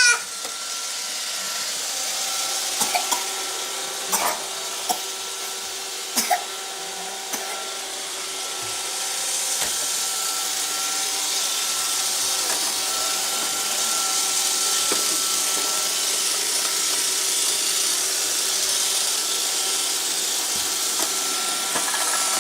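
Roomba robot vacuum running: a steady whirring hiss with a few constant motor tones, and several short knocks in the first seven seconds.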